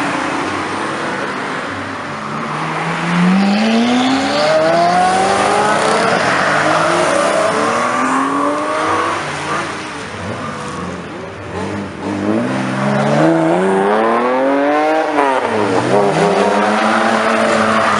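Sports car engines revving hard as the cars accelerate away, pitch climbing again and again through the gear changes, with a quick drop and climb again a few seconds before the end.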